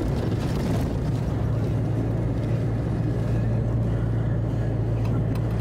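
A motor vehicle running steadily: a constant low engine drone with road or wind noise over it, at an even level throughout.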